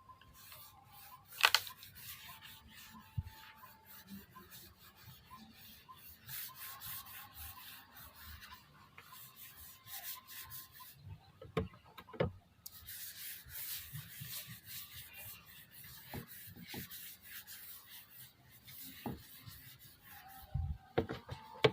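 Intermittent rubbing and scraping against a wooden surface, in uneven stretches, with a few sharp knocks.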